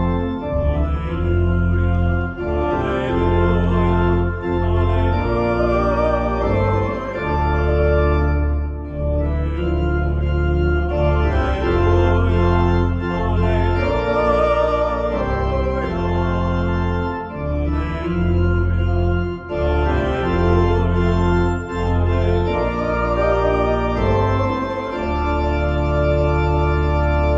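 Organ playing sustained chords over a deep bass line, in phrases of about ten seconds with a short break between them: an instrumental hymn or gospel acclamation in a church service.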